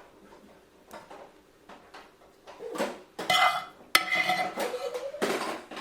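Cutlery clinking against dishes: quiet at first, then a run of sharp clinks and scrapes from about two and a half seconds in, some with a short ring.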